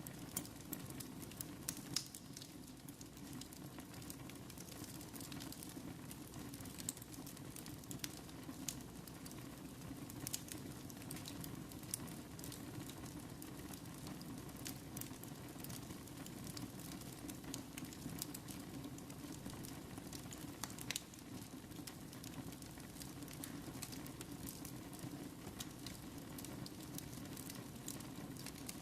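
Wood fire burning in a fireplace: a steady low rumble of flame with frequent irregular crackles and sharp pops.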